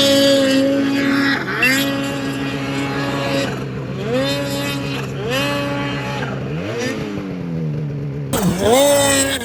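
Snowmobile engine revving hard in repeated bursts, the pitch climbing and holding about once a second, then dropping away as the sled passes around seven seconds in, and revving up again near the end.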